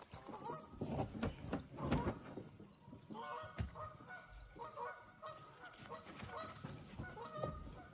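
Birds calling over and over: a quick run of short, pitched calls starting about three seconds in, after a few scattered knocks and thumps.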